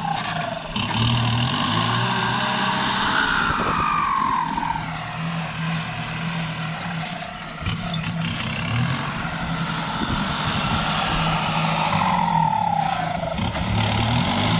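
Kubota tractor's diesel engine running steadily under load while plowing rice stubble. A whining tone falls in pitch a few times over the engine's steady hum.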